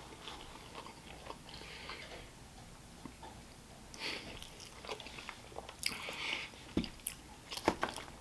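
A person chewing a mouthful of sweet potato fries topped with maple syrup and pecans. Near the end come a few sharp clicks as a plastic fork scrapes in the foil tray.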